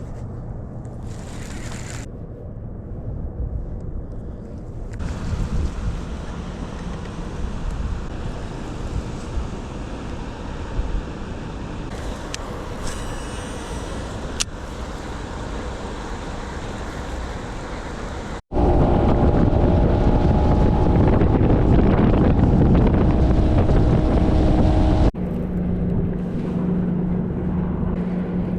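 Small boat's outboard motor running under way, with wind buffeting the microphone and water rushing past the hull. The sound jumps abruptly louder about two-thirds of the way through, with a steadier engine tone, then drops back near the end.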